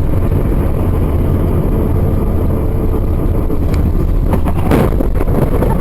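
Loud, steady rumble of a moving vehicle, with a few short knocks about four to five seconds in.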